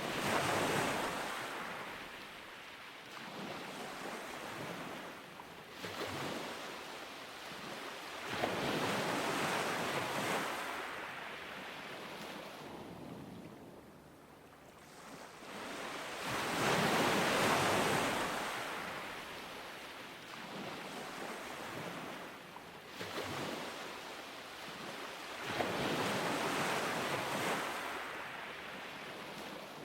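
Ocean waves breaking and washing up on a beach, rising and falling in slow surges, with a big wave about every eight seconds and smaller ones between.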